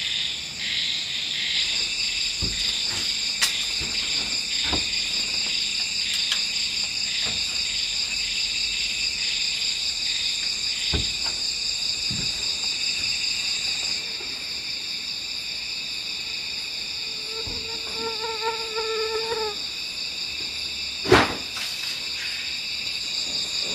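Night chorus of crickets and other insects: a steady high trill that pulses rhythmically through the first half. Scattered faint knocks run under it, a short pitched call sounds about 18 seconds in, and one sharp loud knock comes about 21 seconds in.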